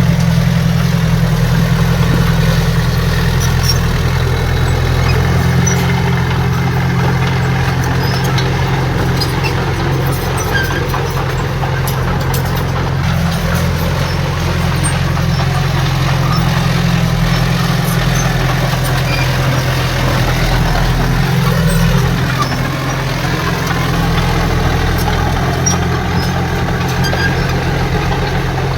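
Heavy diesel engine of an earthmoving machine running steadily with a deep, even note, with faint tones gliding up and down about halfway through.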